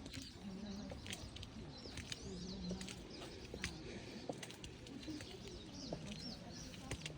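Pigeons cooing in short low phrases, repeated every couple of seconds, with small birds chirping over them and a few sharp clicks.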